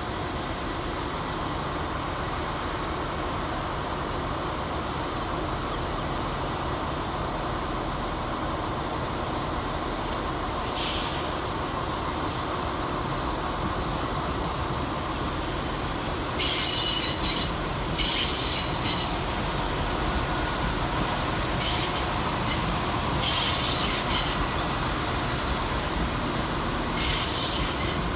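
Irish Rail 22000 Class InterCity diesel railcar running past on the tracks with a steady rumble. From a little past halfway there are repeated short bursts of high-pitched wheel squeal.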